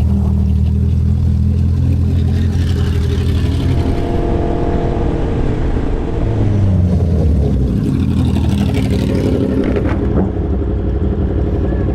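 A motor vehicle engine running steadily, its pitch dropping and rising a few times as the speed changes, over a steady rush of road noise.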